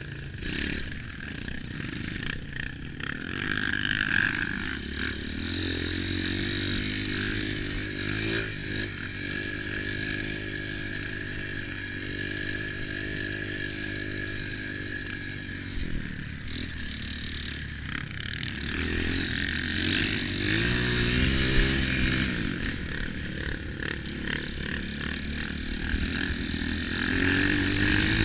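Trail motorcycle engines running and revving, their pitch rising and falling several times, with a rev climbing near the end.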